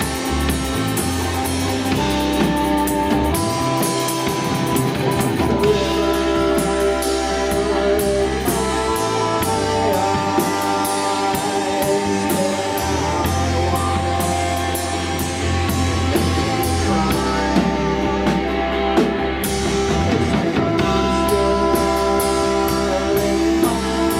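Live rock band playing an instrumental passage: guitars holding sustained chords over a drum kit with steady cymbal hits.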